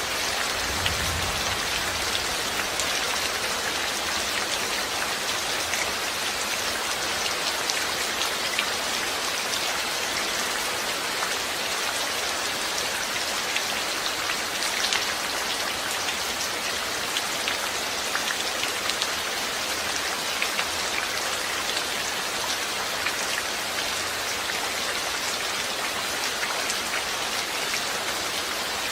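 Steady rain falling on a surface, an even hiss full of fine drop ticks.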